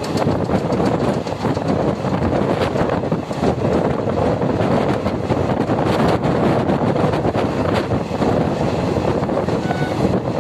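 Express passenger train running at speed, heard from beside a coach: a steady rumble of wheels on the rails with many scattered clicks and rattles, and wind on the microphone.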